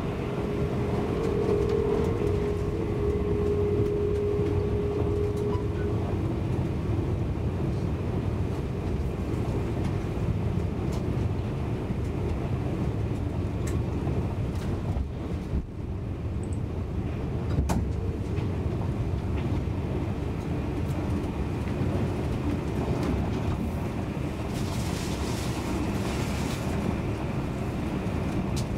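SJ Intercity passenger train running at speed, heard from inside the coach: a steady rumble of wheels on the rails. A faint steady whine sounds over the first several seconds, and a short hiss comes near the end.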